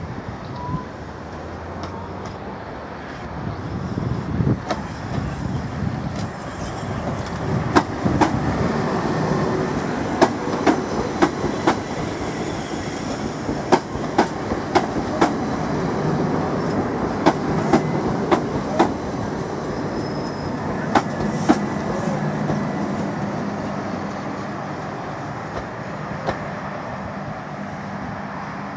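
Class 377 Electrostar electric multiple unit running past along a platform: a steady rumble and hum with a run of sharp clicks from the wheels on the track, loudest in the middle as the coaches go by, then easing off.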